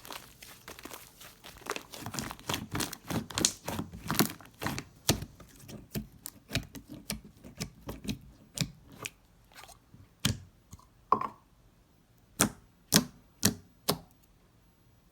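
Slime being squeezed and poked by hand, giving quick crisp pops and clicks. They come thick and fast at first, then give way near the end to a few louder single pops.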